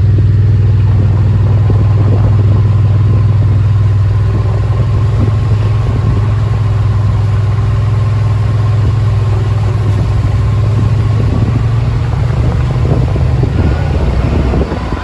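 Yamaha Wolverine side-by-side's engine running steadily as it drives along, a loud, even low drone.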